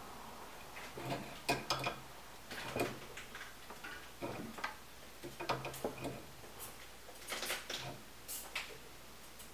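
Scattered, irregularly spaced clicks and light knocks, with a faint low hum coming and going.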